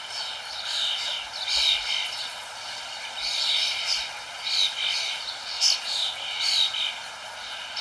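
Birds chirping, short high calls repeating one or two times a second and overlapping, over a steady background hiss.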